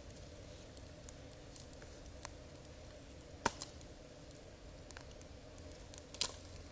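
Campfire crackling: scattered sharp pops and snaps over a low steady background, with the loudest pops about halfway through and near the end.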